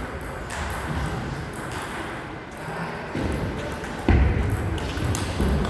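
Table tennis rally: the ball being struck by rackets and bouncing on the table, a series of sharp clicks over a low room rumble. About four seconds in there is a sudden, louder low-pitched sound.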